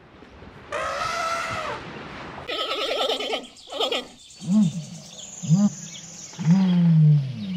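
A series of animal calls: one drawn-out call, then a rapid rattling call, then three short low calls that swoop up and down, the last one longer.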